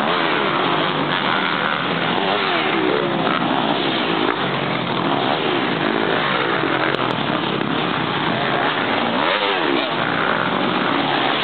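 Several motocross motorcycles racing, their engines revving up and down over one another.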